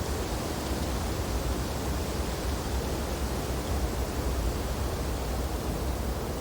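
Steady wind blowing through snowy tree branches: an even rushing hiss with a strong low rumble beneath it.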